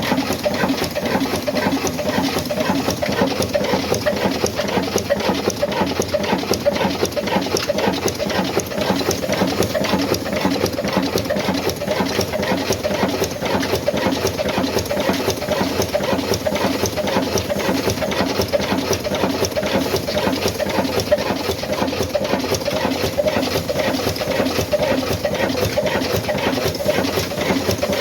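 Old black Ruston Hornsby diesel engine running steadily with a fast, even clatter.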